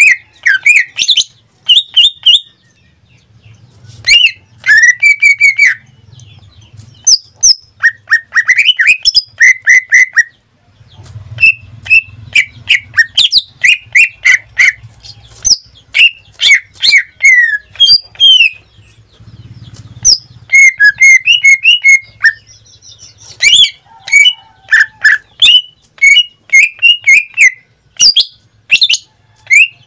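Cucak ijo (green leafbird) in full song: a loud, rapid string of sharp chirps and slurred whistled notes, broken by a couple of short pauses.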